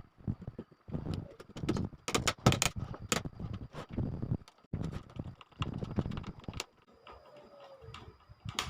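Irregular knocks and clatter of hard objects being handled, in quick runs of clicks, going quieter for a second or two near the end before one sharp knock.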